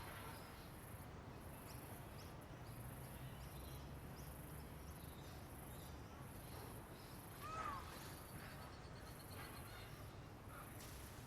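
Faint outdoor ambience: a high insect drone pulsing on and off about once a second, with scattered short bird chirps and a brief trill, and one louder short bird call about two-thirds of the way through, over a low steady rumble.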